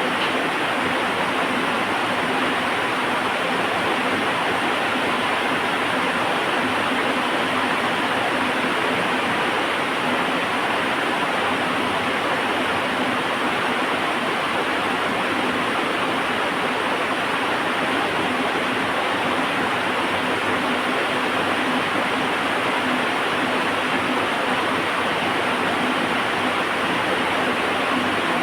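Heavy rain falling in a steady, dense hiss, with no let-up or change.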